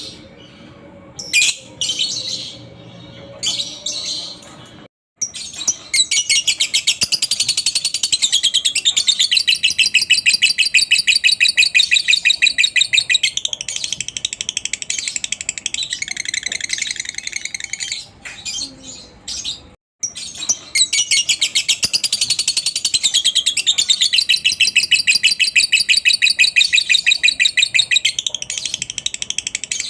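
Lovebird ngekek: short high chirps, then long runs of rapid, evenly repeated chattering chirps, in two long trills broken by a brief dropout.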